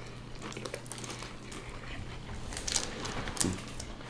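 Close-miked eating sounds: wet chewing and mouth noises from people eating sandwiches, with scattered soft clicks and a couple of louder smacks near the end, over a faint steady low hum.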